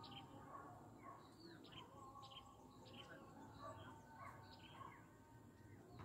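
Faint birds chirping: short high chirps about twice a second over a low outdoor background hum.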